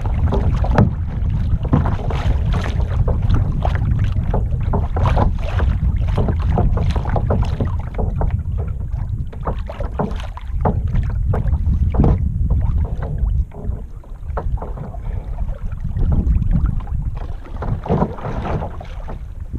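Kayak paddle dipping and splashing in the water, stroke after stroke, over a heavy rumble of wind on the microphone.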